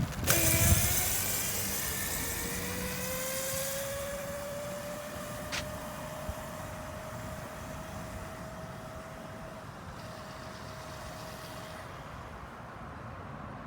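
Dirt bike engine pulling away. Its pitch rises over the first few seconds, then holds steady as the sound fades into the distance.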